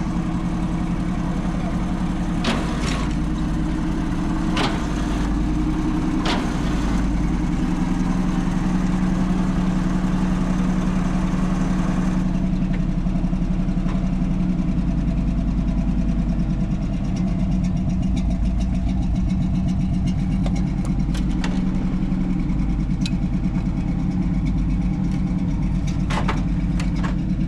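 An engine running steadily at idle, with a few sharp knocks over it.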